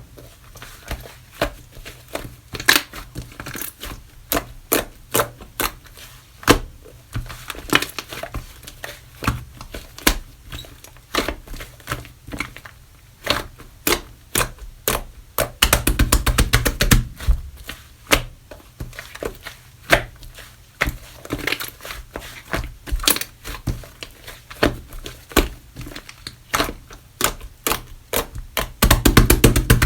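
Clay-mixed slime being pressed, poked and folded by hand, making many sharp clicks and pops, with stretches of rapid crackling about halfway through and again near the end.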